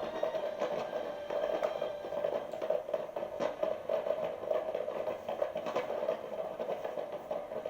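Fireworks crackling and popping in a dense, irregular stream of short cracks over a steady background noise.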